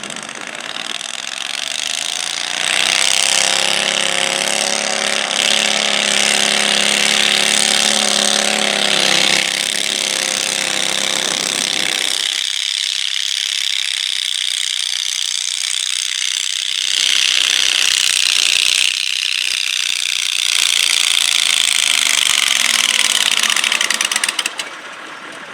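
Stock garden tractor engine running hard under load on a pull, with a loud high rattling clatter throughout. The engine's pitched drone rises early, holds, then falls away about halfway, and the whole sound cuts off suddenly near the end.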